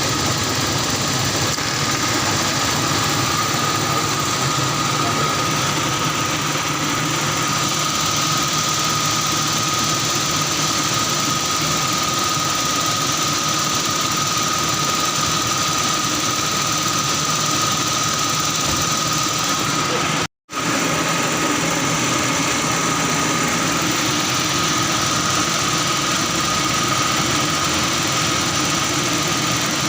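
Toyota Kijang Kapsul engine running steadily with the freshly rebuilt AC compressor engaged during freon charging, a steady high tone sounding above the engine.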